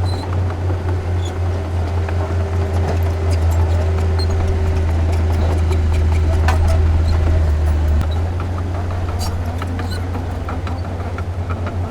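Heavy diesel engine of construction machinery running steadily under load, with scattered metallic clanks and knocks. It is loudest mid-way, then settles into a pulsing throb near the end.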